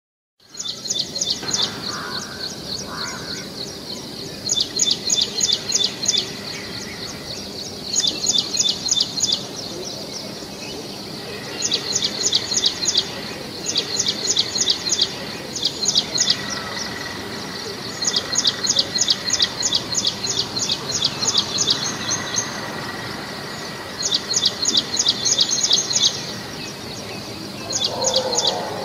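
A bird calling in bursts of rapid high notes, each burst a second or two long, repeated every few seconds.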